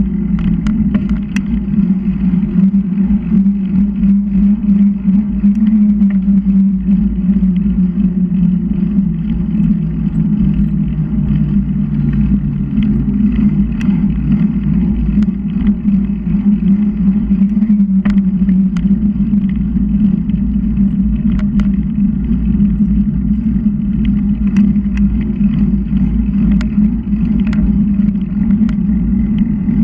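Continuous wind rush and road noise from a moving bicycle: a low rumble and a steady hum that dips in pitch briefly about twelve seconds in, with a few faint clicks.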